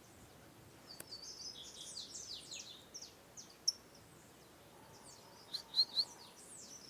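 Several small songbirds chirping and singing at once, with quick, high, overlapping notes and a few louder sharp chirps near the end.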